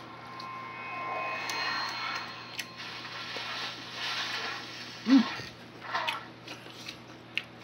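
A man chewing a hot mouthful of chicken cordon bleu, huffing air out through his mouth to cool it, with a short grunt about five seconds in.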